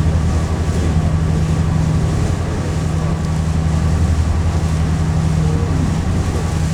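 Steady low drone of a Hakone pirate ship's engine heard on board, with a fast, even throb.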